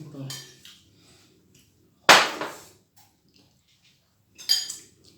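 Noisy eating sounds at a dinner table: one loud, sudden, wet-sounding noise about two seconds in that fades over about half a second, a shorter one near the end, and a few faint clicks of tableware between.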